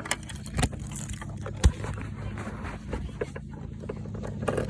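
Small ride-on car's motor running with a steady low hum while the car drives on grass, with scattered rattles and a couple of sharp knocks, the loudest just under two seconds in.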